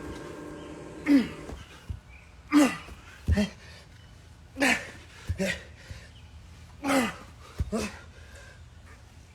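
A man's loud, groaning exhalations from the strain of weighted jump squats, four of them, each falling in pitch, about every two seconds, with a few dull low thuds in between.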